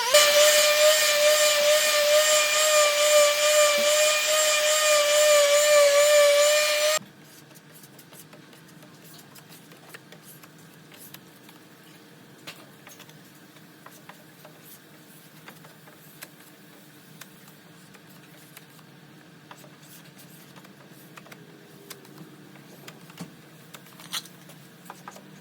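Power tool running with a steady high whine, cutting off suddenly about seven seconds in, followed by faint clicks and handling noises.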